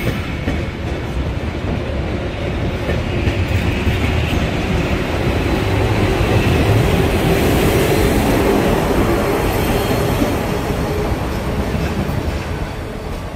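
A Matterhorn Gotthard Bahn metre-gauge train rolling past close by, its wheels rumbling on the rails, growing to its loudest about halfway and then easing off as it moves away. A faint high wheel squeal comes in near the middle.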